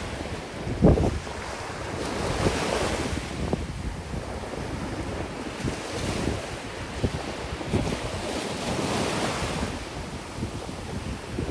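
Sea waves breaking and washing up the beach, swelling and falling back, with strong wind buffeting the microphone in low gusts.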